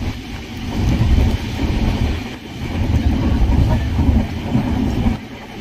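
Moving train heard from inside a passenger coach: a loud low rumble that swells and dips.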